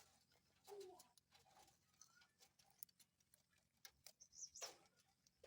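Very faint Indian ringneck parakeet sounds: a few soft, short chirps among scattered small clicks, with a brief rustle near the end.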